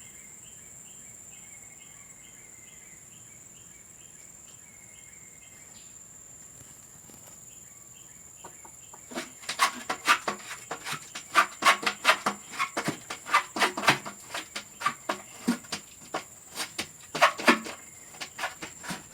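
Domestic hen cackling: a loud, rapid run of repeated clucks starting about halfway through. Before it, only a steady insect chirping of about three pulses a second and a high insect hiss.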